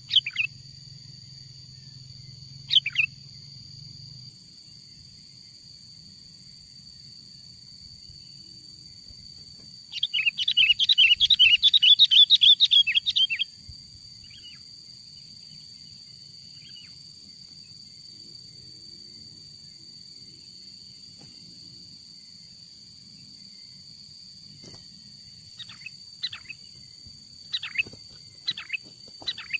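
Sooty-headed bulbul (kutilang) calls, as used to lure wild birds: a couple of short calls, a rapid chattering burst lasting about three and a half seconds about ten seconds in, then a string of short calls near the end.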